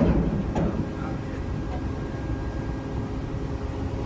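Steady drone of a ship's engine-room machinery, a low rumble with a constant hum, after a brief knock right at the start.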